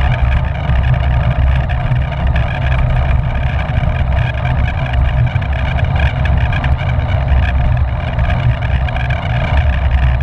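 Steady wind rush and rumble on the microphone of a camera riding along on a bicycle, with no breaks or separate events.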